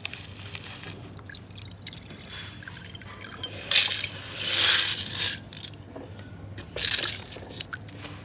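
Water pouring and splashing in a fish bowl as it is rinsed. There is one long splash about halfway through and a shorter one near the end.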